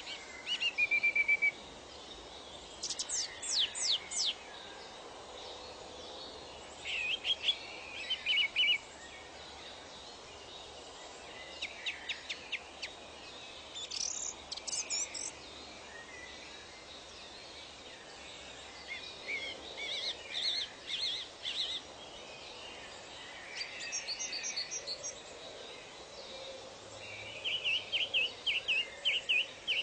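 Wild birds singing in short phrases of quick high chirps, sweeps and trills, a new phrase every few seconds. A steady background hiss of natural ambience runs beneath.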